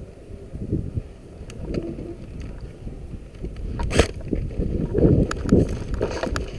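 Rumbling wind and handling noise on a player-mounted camera, with one sharp knock about four seconds in and a few faint clicks after it.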